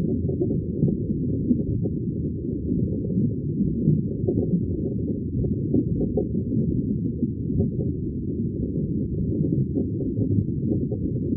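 Muffled aquarium bubbling heard as a dense, low, continuous rumble with small irregular pops, all in the low range with nothing bright above it.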